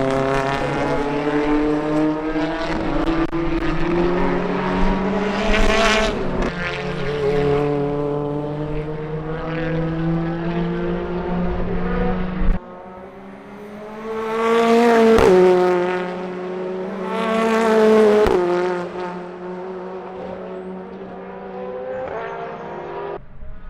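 BTCC Toyota Corolla GR Sport race car engine accelerating hard, its pitch climbing through the gears. It passes close by about six seconds in, and again twice near the middle, each time with a sharp drop in pitch as it goes by.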